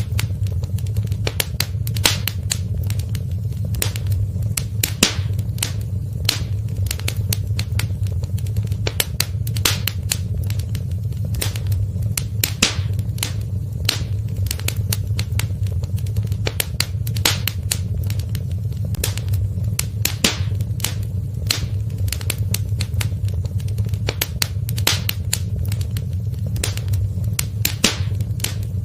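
Wood fire in a fireplace crackling: frequent, irregular sharp pops and snaps over a steady low rumble.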